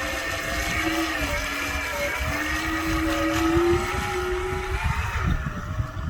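Radio-controlled Fairey Huntsman model boat's motor running on the water, a whine that rises and falls in pitch as the throttle changes, dropping away near the end.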